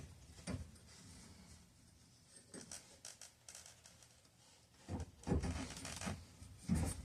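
Pipe cutter being turned around a copper water pipe, its cutting wheel scraping in short, irregular strokes. The strokes are faint at first and louder over the last two seconds.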